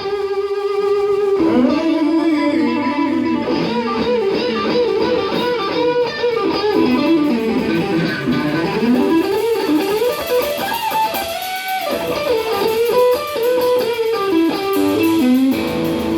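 Electric guitar playing a solo over a rock band, a melodic line full of pitch bends and slides that opens on a long held note.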